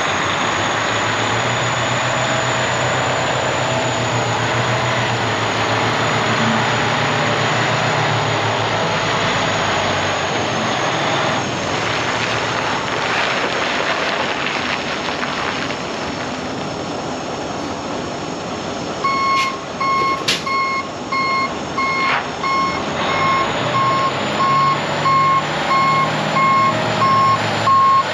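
Heavy diesel truck running. About two-thirds of the way in, a backup alarm starts beeping at an even steady rate, with one short sharp burst just after it begins.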